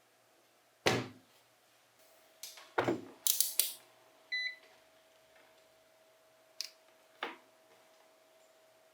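A series of separate sharp knocks and clinks from metal parts being handled and set down, with two short hissy bursts about three and a half seconds in and a brief clear metallic ring just after. A faint steady hum runs underneath from about two seconds in.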